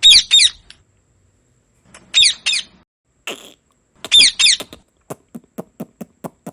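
Indian ringneck parrot squawking: three bursts of two or three sharp, high, falling calls about two seconds apart. Near the end comes a run of short clicks, about four or five a second.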